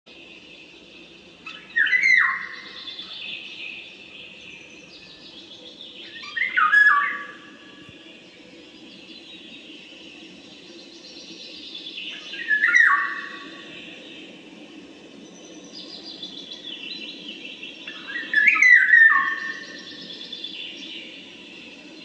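A bird calling four times, a few seconds apart, each a short call that slides downward in pitch, over a steady low background hum.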